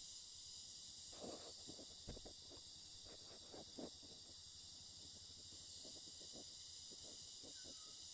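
Steady high-pitched chorus of insects chirring, with a few scattered soft crackles.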